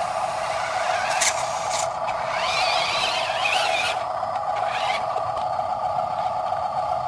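Radio-controlled model truck's electric motor and gearbox whining steadily as it drives through mud, with a higher wavering whine between about 2.5 and 4 seconds in and a couple of short clicks.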